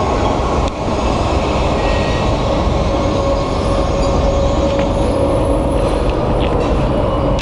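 Washington Metro Orange Line train running underground: a loud steady rumble with a steady high tone over it.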